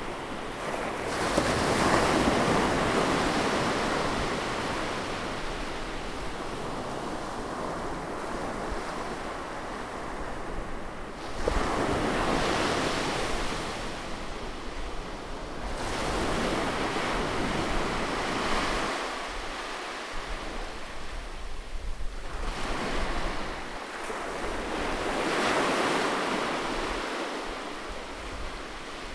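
Sea waves breaking on a beach, one after another. About five times the surf swells into a rush and then washes back out.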